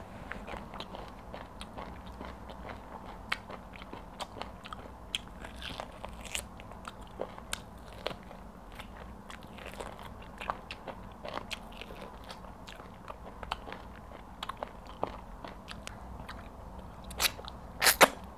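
Close-miked chewing of pounded yam and egusi soup eaten by hand: a run of small wet mouth clicks and smacks, with two louder smacks near the end as she sucks her fingers clean.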